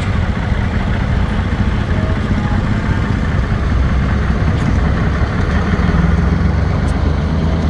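An engine running steadily at an even speed, a continuous low rumble.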